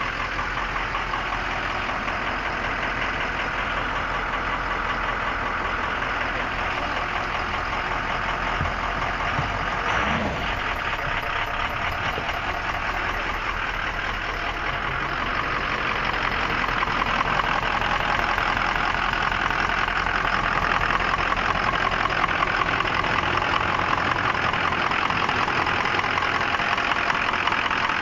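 2004 Ford F-250 Super Duty's 6.0L V8 turbodiesel idling steadily, with an even engine rhythm. It gets a little louder about halfway through.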